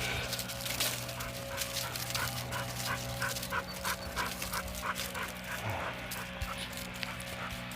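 Dog panting fast and hard, about three or four breaths a second, out of breath from running; the panting fades out about six seconds in.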